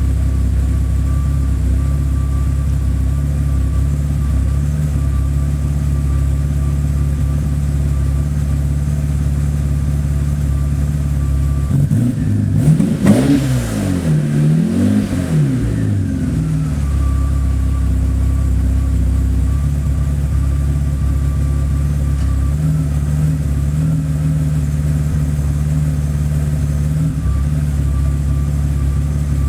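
BMW 850 (E31) V12 idling steadily during its warm-up after a winter cold start. It is revved twice in quick succession about halfway through, then settles back to idle.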